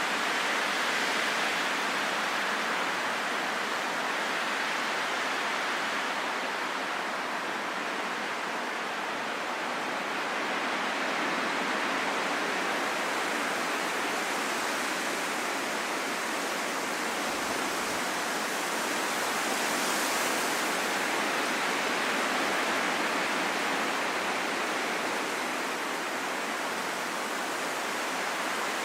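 Steady wind, a soft even rushing with no whistling tone, that swells and eases slowly: louder near the start and again about two-thirds of the way through.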